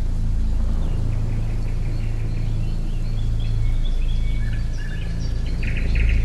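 Birds chirping and calling in short high notes, with a rapid run of chirps near the end, over a steady low background hum.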